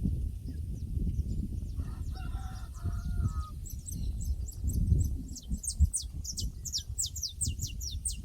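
Rural pasture ambience over a steady low rumble. A distant rooster crows about two seconds in, and a small songbird calls with rapid, high, falling chirps through the second half.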